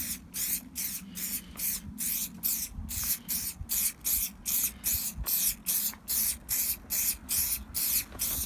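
Trigger spray bottle of Muc-Off Fabric Protect being pumped quickly onto motorcycle trousers: a steady run of short hissing squirts, about three a second.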